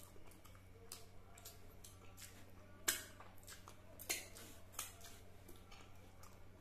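A person chewing food close to the microphone: scattered short crunches and mouth clicks, the three loudest about halfway through, over a low steady hum.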